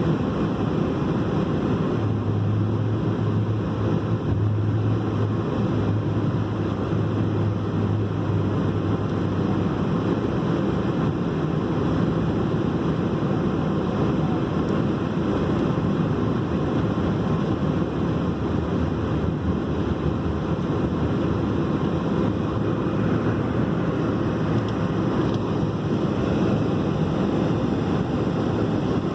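Jet airliner cabin noise: a loud, steady rush of engines and airflow, with a low hum for several seconds early on.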